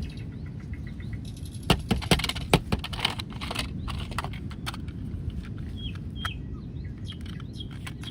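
Birds chirping in the background over steady outdoor noise, with a quick cluster of sharp clicks and knocks between about two and three and a half seconds in.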